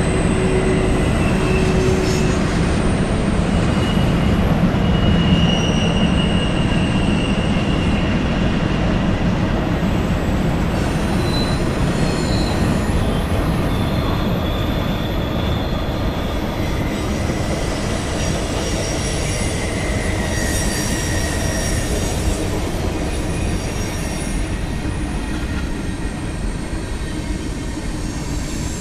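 Freight cars of a CSX train rolling past: a steady rumble of steel wheels on rail, with brief high squeals from the wheels now and then. It eases off a little as the last cars go by near the end.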